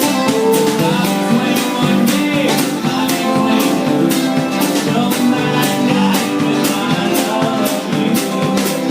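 Live band playing an instrumental passage: guitar and other plucked strings over a steady percussion beat.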